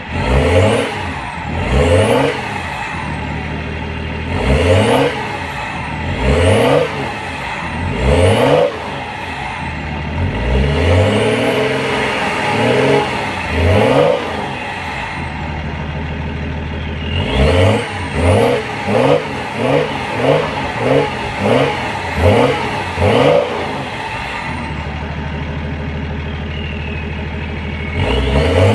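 BMW E38 730d's 3.0-litre straight-six turbodiesel through a straight-through exhaust, idling and revved in repeated short blips that each rise and fall back to idle, with a quicker run of short blips in the second half and steady idle near the end.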